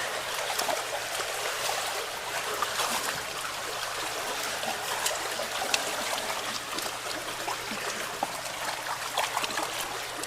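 Water running and trickling through a clogged ditch culvert, with scattered small clicks and splashes.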